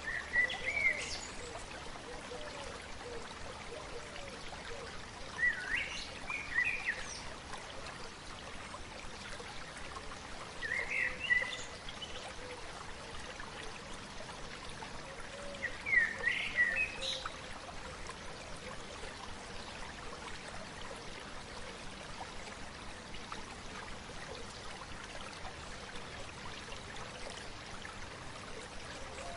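A stream running steadily, with a songbird singing short chirping phrases four times, about every five seconds, during the first half.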